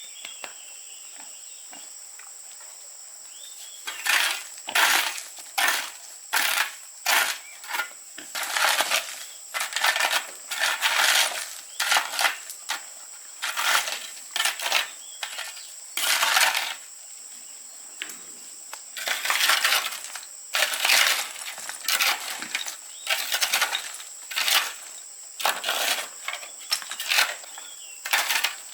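Hand tools working stone and gravel: repeated scraping, clinking strokes, irregular at about one a second, starting about four seconds in. Insects drone steadily underneath.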